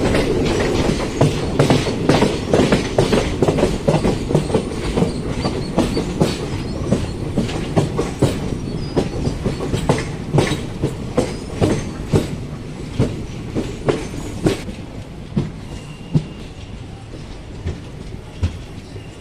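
Boat Mail Express passenger train's wheels rumbling and clattering over rail joints. Loud at first, then a run of sharp clicks that grow sparser and fainter toward the end.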